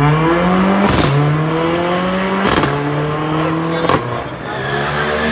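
A car engine accelerating hard, its pitch climbing and then dropping suddenly with a sharp crack, three times: about a second in, about two and a half seconds in, and about four seconds in.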